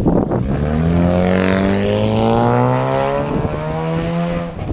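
Honda Civic four-cylinder engine accelerating through a muffler-deleted exhaust, its note rising steadily in pitch, then breaking off near the end.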